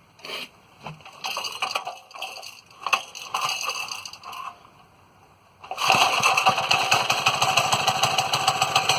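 Small single-cylinder Briggs & Stratton engine on a mini bike being started: a few short rattling starting attempts, then it catches about six seconds in and runs with a fast, even firing beat.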